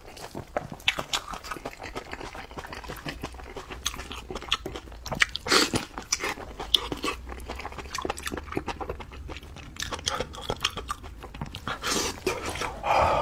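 Close-miked eating sounds: chewing and crunching on spiced sheep's head meat, with many irregular sharp crackles.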